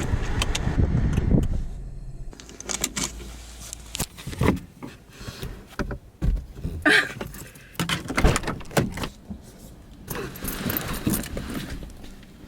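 A low car rumble for about two seconds, then a string of irregular clicks, knocks and rattles of things being handled in a car.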